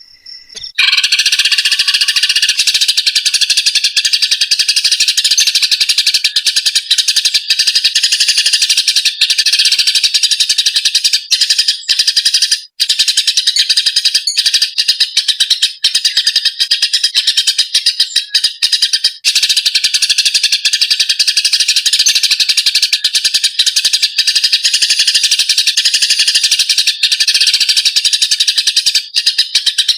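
Eurasian tree sparrows giving their fighting calls: dense, rapid, harsh chirping without a let-up, starting about a second in, with one brief break near the middle.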